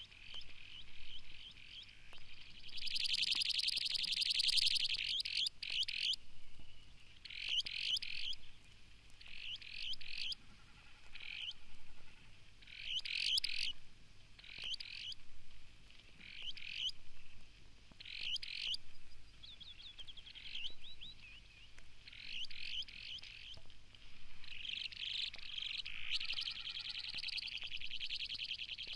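Broad-billed sandpiper calling: short buzzy trilled phrases repeated every second or two, with a longer, denser trill about three seconds in and another near the end.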